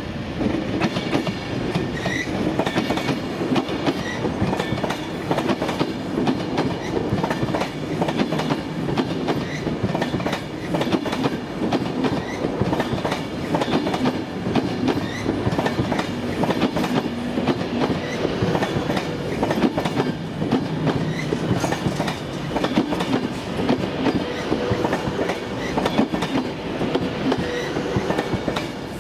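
A train running by on the track, its wheels clattering steadily over rail joints and pointwork with many sharp clicks.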